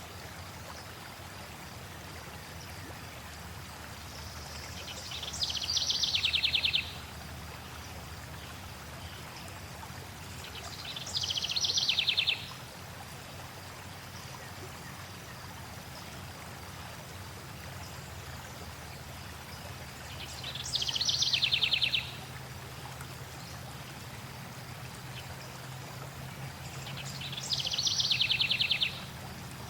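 Stream flowing steadily, with a songbird singing four short trilled phrases, one every six to nine seconds, each a quick run of rapidly repeated notes lasting a second or two and standing out above the water.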